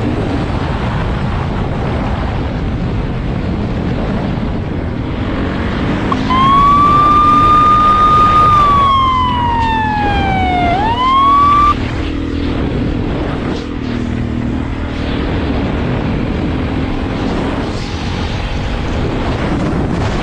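Steady vehicle engine and road noise, with a police siren wailing for about five seconds near the middle: it rises, holds, sweeps down, then rises sharply again before cutting off suddenly.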